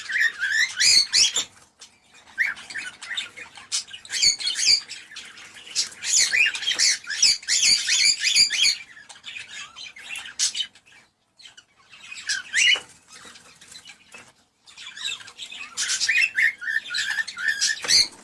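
Cockatiels chirping and whistling in rapid, high-pitched bursts with short pauses between them.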